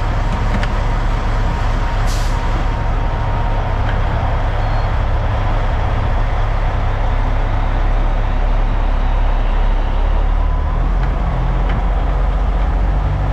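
Semi truck's diesel engine running: a steady, loud low rumble with a constant wash of noise over it.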